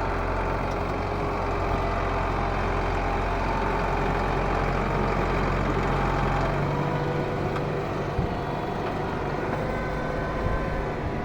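Ford 7610 tractor's diesel engine running steadily under way, with a change in its note about two-thirds of the way through.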